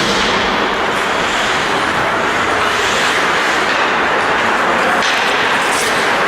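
Steady, loud rushing noise with a few short sharp knocks, about a second in and about five seconds in.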